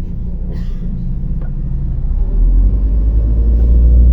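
Diesel engine of a MAZ-105 city bus, heard from inside the cabin, a steady low rumble that grows clearly louder from about halfway through as the engine takes load. A brief faint hiss comes early on.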